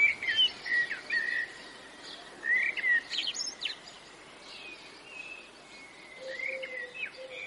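Songbirds chirping and calling: many short whistled chirps, busiest in the first few seconds, over a steady outdoor hiss.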